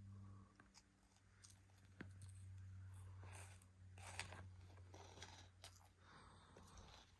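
Near silence: a low steady hum with faint, scattered crunches and clicks of a toddler munching and handling dry cereal.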